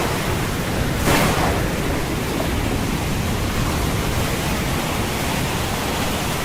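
Storm at sea: a steady rush of wind and heavy waves, with one louder wave crash or gust about a second in.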